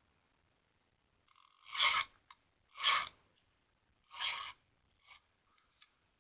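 Three rubbing strokes across cardstock, about a second apart, each lasting about half a second, with a faint short fourth stroke near the end.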